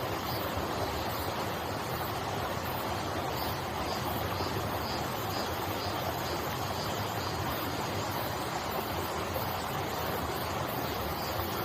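Valley stream flowing: a steady, even rush of running water.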